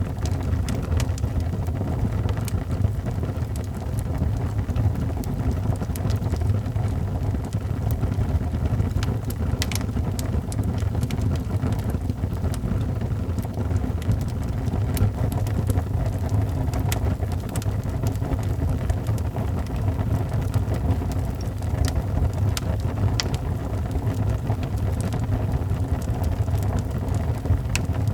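Wood fire burning in a fireplace: a steady low rumble of flames with frequent small crackles and pops, a few of them sharper.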